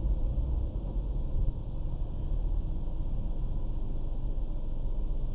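Steady low rumble of a vehicle on the move, heavy in the bass and dull, with no clear rise or fall in pitch.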